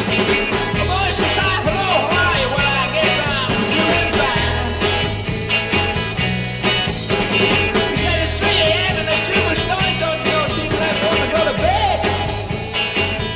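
1960s rock band recording playing with a steady beat.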